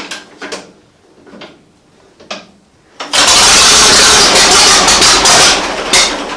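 1940 Fordson N tractor's four-cylinder side-valve engine being started. After a few light knocks, about three seconds in, it suddenly fires and runs loudly for around three seconds, then fades and dies: it nearly started.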